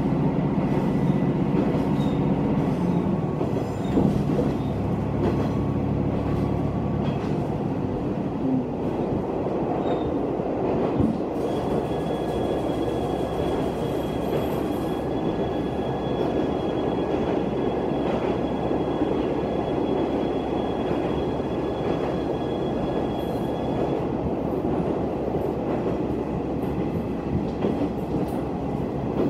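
Diesel railcar running, heard from inside the passenger cabin. An engine drone with shifting pitch is heard for the first several seconds, then a steady rumble of wheels on the rails, with a faint high whine for about twelve seconds in the middle.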